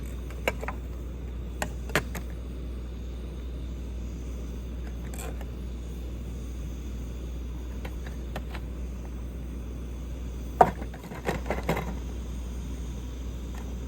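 A camp stove heating a pot of water, a steady low rumble, with scattered clinks and knocks of camp gear being handled. The loudest is a sharp knock about ten and a half seconds in, followed by a short run of clatter.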